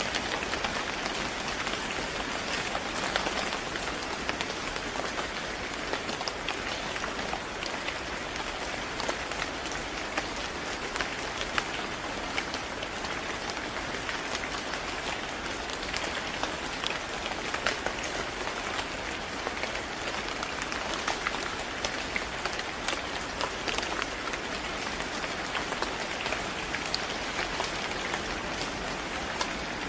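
Steady rain falling on a hard surface, a constant hiss scattered with many distinct drop ticks.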